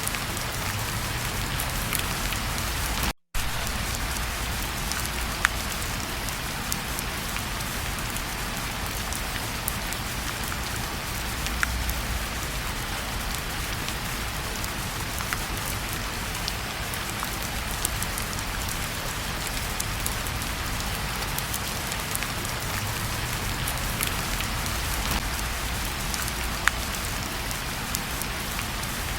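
Steady rain falling on a surface, an even hiss with scattered sharp ticks and pops and a low rumble underneath. The sound cuts out for a split second about three seconds in.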